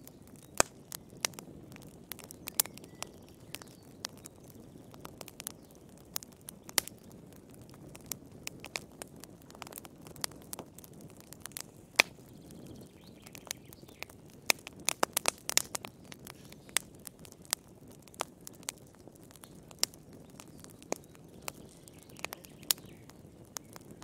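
Wood fire crackling in a fireplace: irregular sharp pops and snaps, some loud, over a soft low rumble of the flames.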